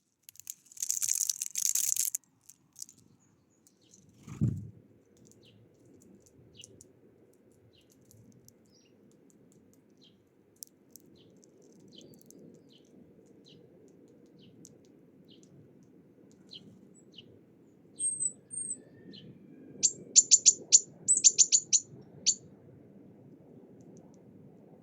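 Small wild birds chirping with short, high, scattered notes. A harsh burst of noise comes in the first couple of seconds, a dull thump at about four seconds, and a quick run of sharp clicks near the end.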